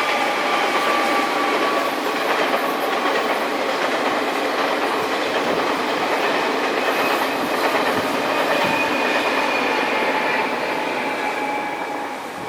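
A train passing close by: a steady rush and rattle of wheels on the track, with faint high whining tones over it, fading near the end as it moves away.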